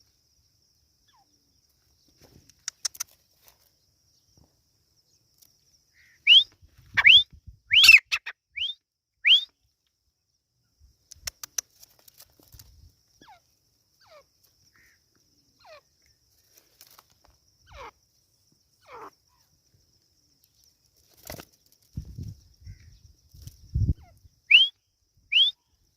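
Teetar (francolin) calling in short, rising whistled notes: a run of five about six seconds in, and three more near the end. A few low thumps come shortly before the last run.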